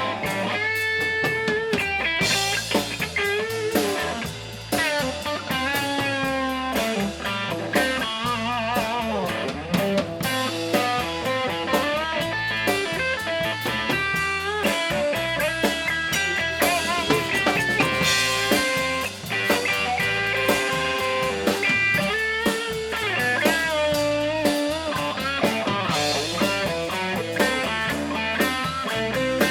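Blues-rock band playing an instrumental break: an electric guitar solo with bent notes and vibrato over drums.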